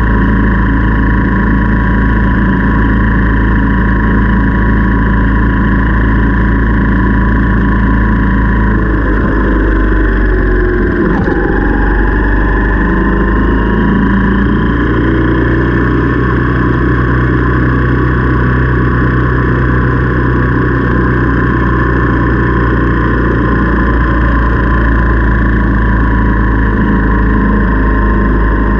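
Motorcycle engine running steadily while riding, over a constant low rumble of wind and road noise. About ten seconds in, the engine note dips and then settles at a new pitch.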